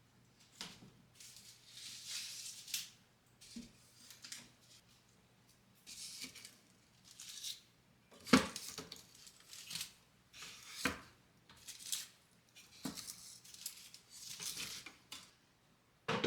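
Household objects being handled: intermittent rustling and scraping with several light knocks, the sharpest about halfway through, over a faint steady hum.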